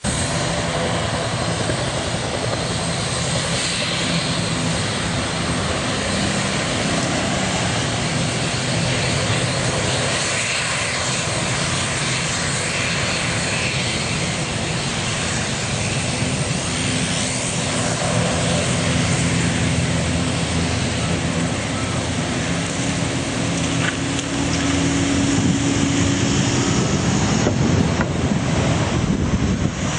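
Airliner engines running, a steady loud rush with a droning hum underneath that swells louder in the last few seconds.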